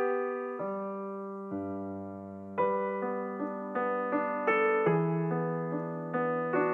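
Slow, calm solo piano music: single notes and chords struck one after another, each ringing and fading away, with a couple of longer held notes about a second in before a steadier run of notes.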